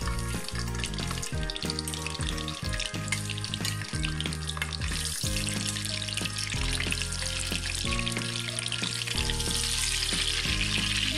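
Peeled hard-boiled eggs frying in hot oil in a pan, a steady crackling sizzle that grows louder in the second half as more eggs go in. Background music plays underneath.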